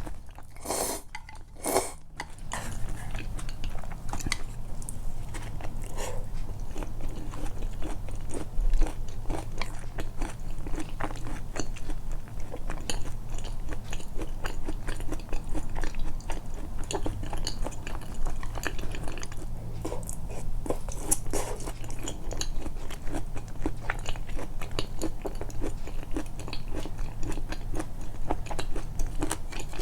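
Close-miked, amplified eating sounds: a person biting and chewing food with wet mouth smacks, with a short pause about a second in.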